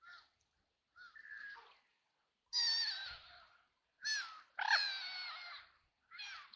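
Ducks quacking: a run of about six separate quacks, some short and some drawn out to about a second, the loudest a little over two seconds in and again near five seconds.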